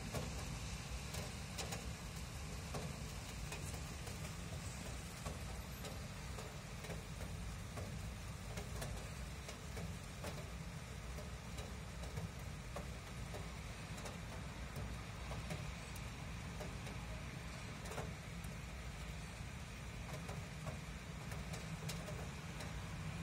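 Light rain falling, with single drops ticking close by over a steady low background rumble.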